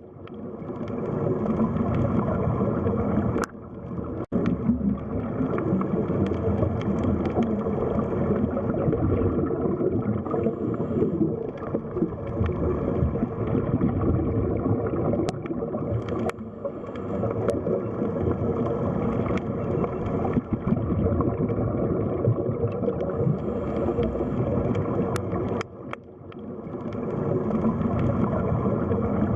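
Underwater sea ambience: a muffled, steady rush and gurgle of water. It drops away briefly about three and a half seconds in and again near the end, swelling back each time.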